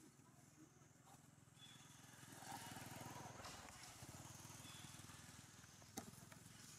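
Faint small engine running, growing louder about two seconds in and then slowly fading, with one sharp click near the end.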